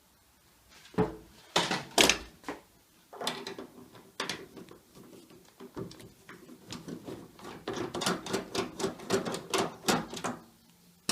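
Socket ratchet clicking in quick runs as small screws are undone from a washing machine's steel cross member. A few louder metallic knocks come about one to two seconds in.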